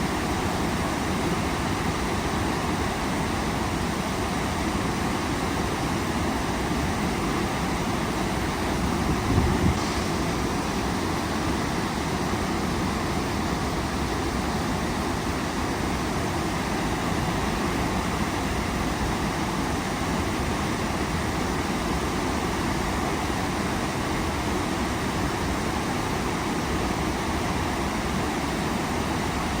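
Waterfall's steady roar of rushing water, with a brief low thump about nine seconds in.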